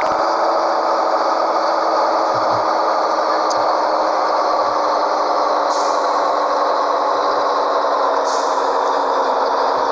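Scania 113H truck engine running steadily, its note drifting slightly lower.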